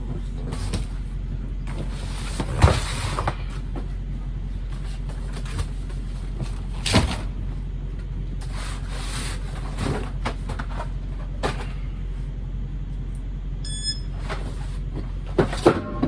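Boxed food cases being handled and stacked onto a hand dolly: scattered thuds, knocks and scuffs over a steady low hum. A short electronic beep from a handheld barcode scanner sounds near the end.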